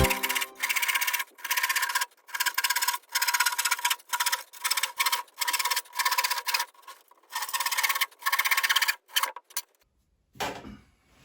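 A hand saw cutting through timber, about a dozen steady, even back-and-forth strokes that stop shortly before the end, followed by a brief rub of wood.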